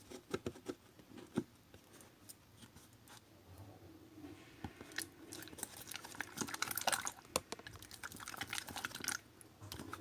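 Slime being kneaded and mixed by hand, making wet squishing and sticky clicking sounds. A few sharp clicks come at first, then a dense run of crackling pops from about halfway through until near the end.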